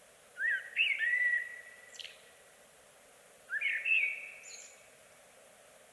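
A songbird singing two short whistled phrases about three seconds apart, each a quick rising note followed by a longer held whistle, over a steady faint hiss.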